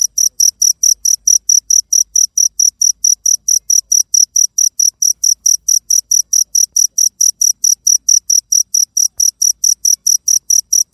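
Cricket chirping: a steady, loud train of short, high-pitched pulses, about four a second.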